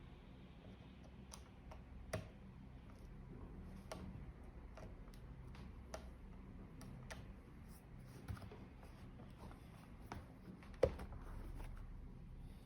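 Scattered light clicks and taps of small tools and plastic parts being handled during laptop disassembly, with a sharper knock about eleven seconds in, over a faint low steady hum.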